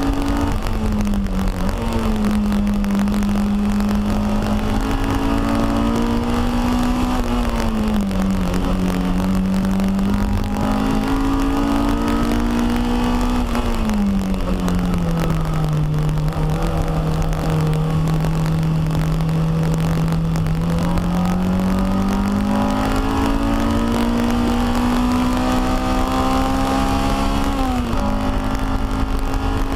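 Honda K20 four-cylinder engine of a Toyota MR2 Spyder, heard from inside the cabin while lapping a race track: the revs climb and fall through the corners, with sudden drops in pitch at gear changes about a second and a half in and near the end. A steady low road and wind rumble sits underneath.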